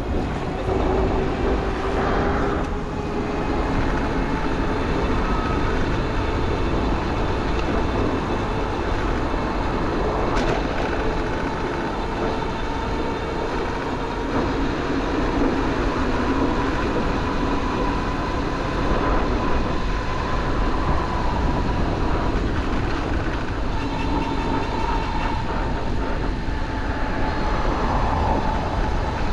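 Toronto streetcar running close by, its electric drive giving a steady whine that rises slowly in pitch, over a constant rumble of wind and street traffic.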